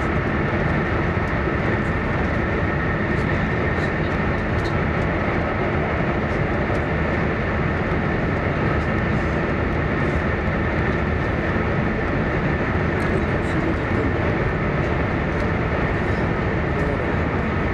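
Steady running noise of an E1 series Max Shinkansen at speed, heard from inside the passenger car: an even, dense rush with a faint steady tone above it.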